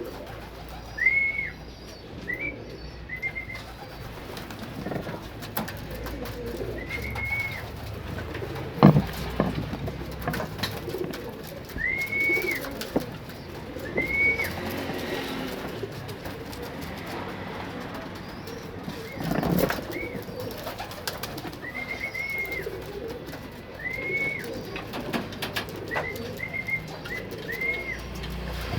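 Pigeons cooing in a loft, with short high chirps repeated again and again over the cooing and a few sharp knocks, the loudest about a third of the way in.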